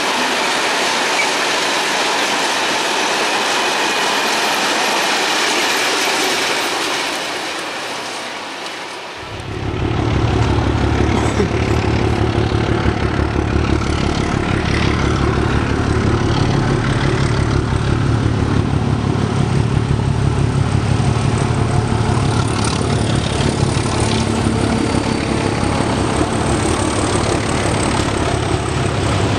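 Freight train of hopper wagons rolling away, its wheel-on-rail noise fading over the last few seconds before a cut. Then a freight train hauled by a pair of T478 'Bardotka' diesel locomotives passes close, with a deep steady diesel drone under the rumble and clatter of the hopper wagons' wheels.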